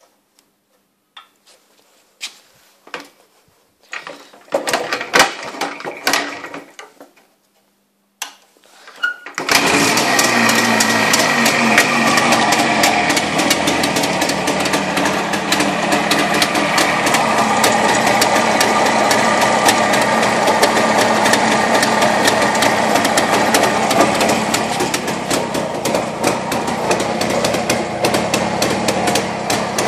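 Jawa 350 type 360's two-stroke twin engine starting after ten years standing: a few knocks and short rattling bursts, then it catches about nine seconds in and runs steadily with a fast crackling tick over its note.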